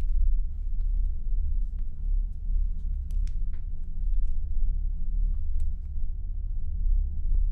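Steady low rumble with a few faint scattered clicks.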